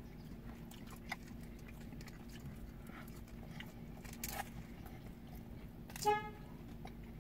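Quiet chewing and small mouth clicks from people eating pizza, over a steady low hum. About six seconds in there is one short horn toot.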